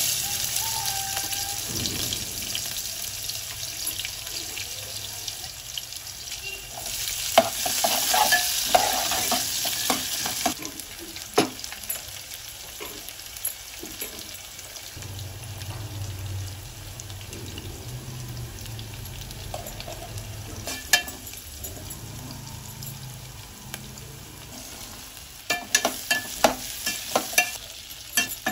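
Hot oil sizzling in an aluminium pot as chopped onions go into a tempering of dals and cumin, with a louder stretch of sizzling about seven seconds in. A metal slotted spatula stirs, clicking and scraping against the pot now and then, with a quick run of knocks near the end.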